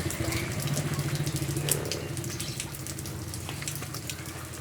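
Rain falling, with scattered drops pattering and splashing, over a low steady hum.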